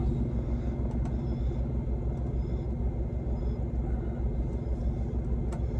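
Idling truck diesel engine: a steady low rumble with an even, fast pulse. A single short click sounds near the end.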